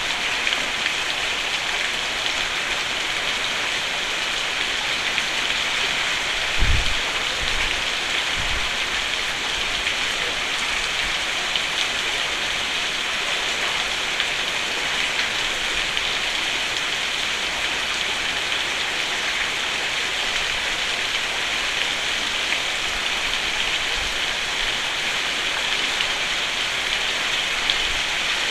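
Steady rain falling on a roof, an even dense patter, with a couple of brief low thumps about a quarter of the way in.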